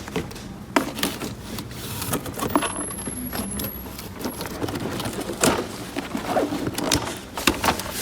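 Small plastic toy pieces being handled, with irregular light clicks, taps and rattles and a few sharper clicks in the second half.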